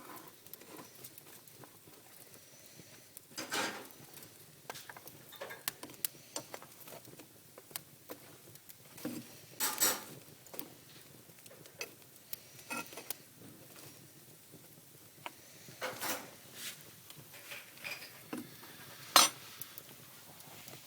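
Wood fire crackling in an open fireplace: irregular small snaps over a faint hiss, with a few louder pops, the sharpest near the end.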